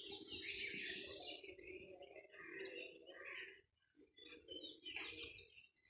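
Small birds chirping and calling in scattered short notes over a faint low background hum.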